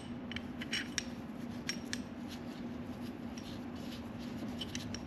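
Light clicks and clinks of metal driver discs from a bearing race and seal driver set being handled and tried against a wheel bearing race, over a steady low hum.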